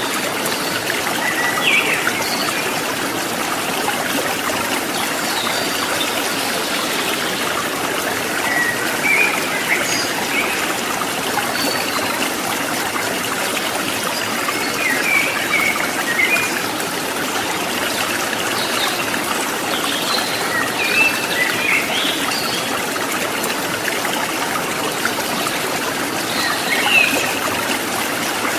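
Water trickling and babbling steadily in a stream, with short high bird chirps every few seconds.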